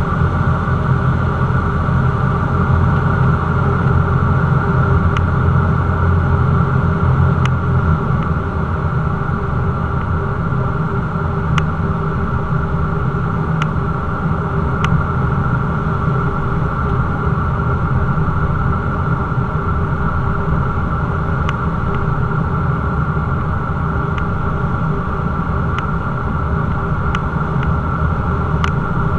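Cessna 172's piston engine and propeller running steadily with a strong low drone, with a few faint clicks over it.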